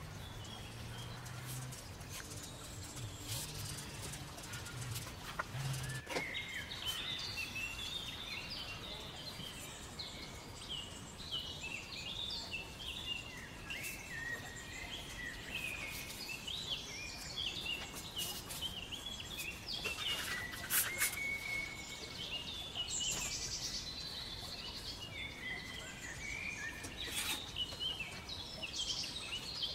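Songbirds singing: a busy run of quick chirping notes that starts about six seconds in, with a few sharp clicks from a spatula working wet sand-cement mortar.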